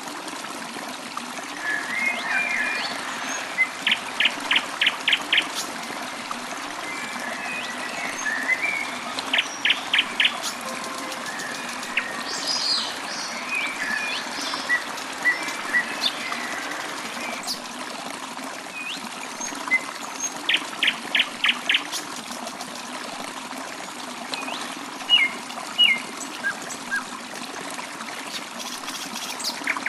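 A small stream trickling steadily while songbirds call over it. A few times a bird gives a quick run of five or six sharp notes, with other chirps and short whistles in between.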